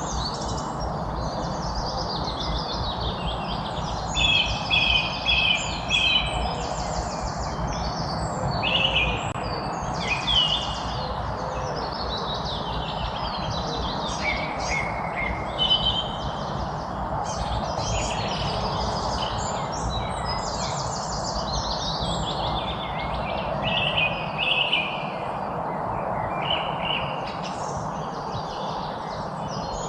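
A chorus of songbirds singing and chirping, many short overlapping phrases and trills throughout, over a steady background noise.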